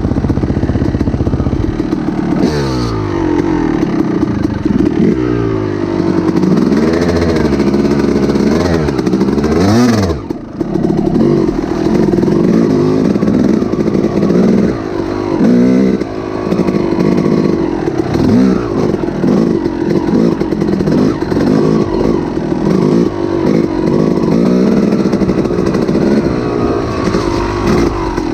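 A small engine running loudly and revving up and down repeatedly, dipping sharply about ten seconds in, then running on more steadily.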